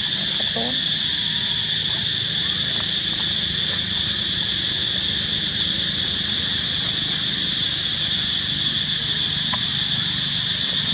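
Steady, high-pitched drone of an insect chorus, unchanging throughout, over a low background murmur. A couple of short chirping calls sound just at the start.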